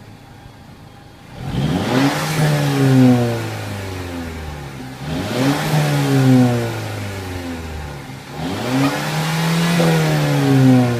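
2014 Mercedes-Benz CLA250's 2.0-litre turbocharged four-cylinder engine revved three times from idle, each rev climbing and falling back, the last held a little longer. Sport mode is selected, which makes no distinguishable difference to the exhaust sound.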